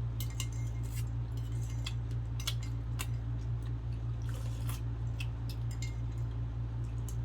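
Scattered light clicks and clinks of dishes and eating at a meal, over a steady low hum.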